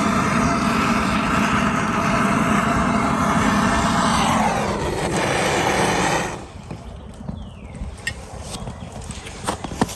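A passing engine runs steadily, and its pitch drops as it goes by. It cuts off abruptly about six seconds in. After that come faint scattered ticks and crackles.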